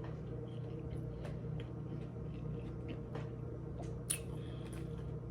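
A person chewing a tuna sub close to the microphone: soft wet mouth clicks and squishes, with a sharper click a little past four seconds in, over a steady hum.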